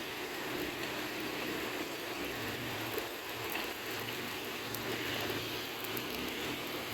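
Steady, even rush of a river's running water, with faint scattered crackles.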